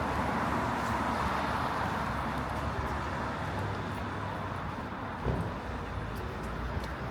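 Wet city street ambience: a vehicle's tyres hissing on the wet road, fading over the first few seconds, with a brief thump about five seconds in.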